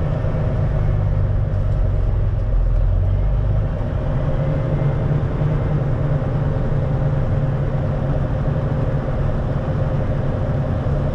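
Diesel engine of a 1974 Kenworth log truck running steadily, with a thin steady whine above its low note. The low note changes slightly about four seconds in.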